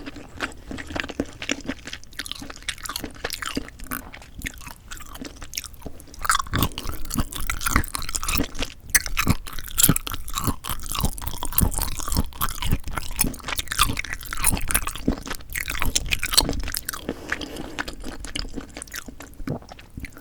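Close-miked eating sounds of spicy cold noodles with sea snails: wet chewing with crunches, growing louder and denser about six seconds in and easing off near the end.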